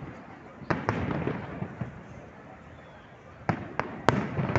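Aerial fireworks bursting: sharp bangs, each followed by a rumbling echo and crackle. Two come close together about a second in and three more come in quick succession near the end, the last of them the loudest.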